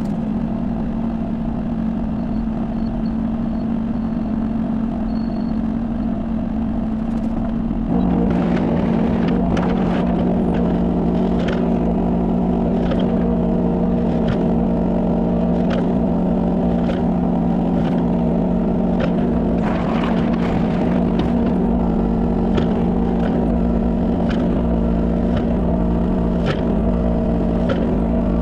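Kubota 33 mini excavator's diesel engine running steadily, its level stepping up about eight seconds in as the machine works harder. From then on, irregular clanks and scrapes come through over the engine.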